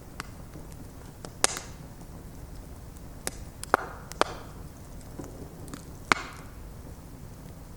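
Bonfire of stacked wood logs burning: a steady low rumble of the flames with sharp crackles and pops from the wood, half a dozen standing out over the few seconds.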